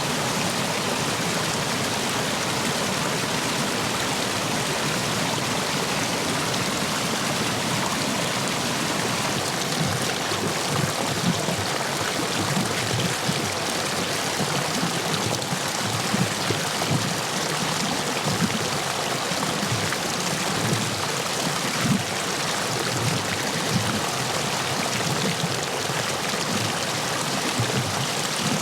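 Stream water rushing over and between stepping stones in a steady, dense wash, with deeper splashes and gurgles coming and going from about ten seconds in. The stream is running full after heavy rain.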